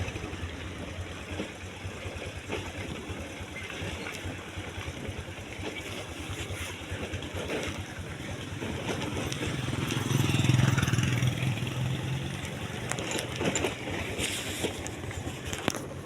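Motorcycle engine running on the move, with wind noise on the microphone; the engine gets louder and pulls harder about ten seconds in.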